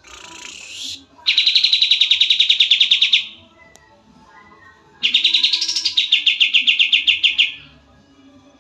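Kapas tembak songbird singing: two long, rapid trills of fast repeated high notes, about ten a second, each lasting two to three seconds, after a short rougher call right at the start.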